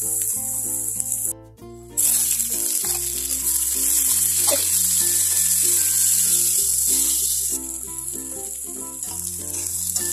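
Chopped vegetables and meatballs sizzling in oil in a wok, with a metal spatula scraping and clicking against the pan, over background music. The sizzle drops out briefly about a second and a half in, then is loudest through the middle before easing off.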